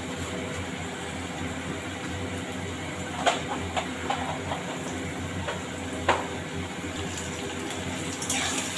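Cubed potatoes frying in oil in a karai, a steady sizzle. A few sharp clicks of the spatula against the pan come through it, the clearest about three and six seconds in.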